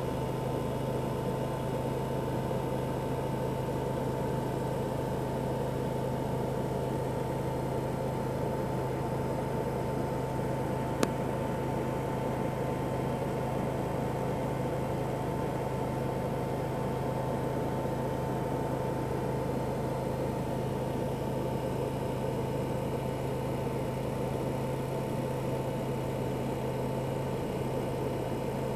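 Steady hum of an idling car engine, unchanging throughout, with a single sharp click about eleven seconds in.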